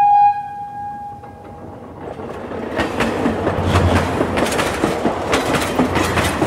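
A train horn sounds one steady note that fades out in the first second or so. A rolling train's wheels then clatter over the rail joints in a run of rumbling, repeated clacks.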